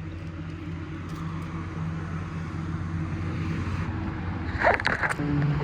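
Steady low hum of a running motor vehicle, slowly growing louder, with a brief sharper sound about four and a half seconds in.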